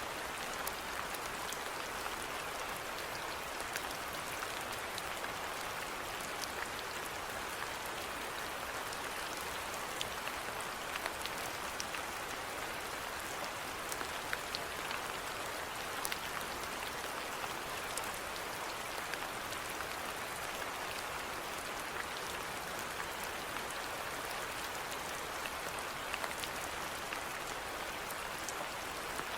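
Steady rainfall: an even hiss of rain with many small scattered drop ticks pattering on a surface.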